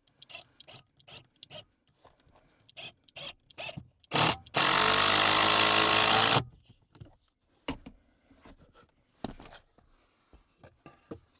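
Handling and knocking of wood pieces, a string of short knocks and clicks, broken about halfway through by a power tool running steadily for about two seconds.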